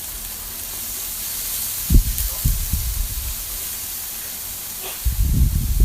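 Sliced pork belly sizzling on a grill, a steady hiss. Low rumbling knocks come in about two seconds in and again near the end.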